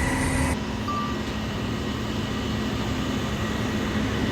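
Steady drone of heavy diesel engines from the concrete pump truck and ready-mix trucks running during the pour, with a low hum under it. The high hiss drops off suddenly about half a second in.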